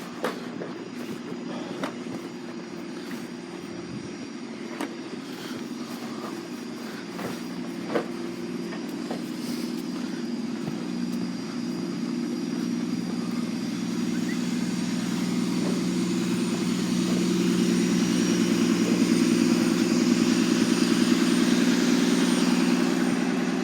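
Steady mechanical hum, growing louder over the second half, with a few sharp clicks in the first half.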